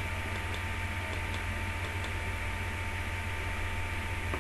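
Steady background hiss with a low electrical hum, and faint regular ticking in the first second or so.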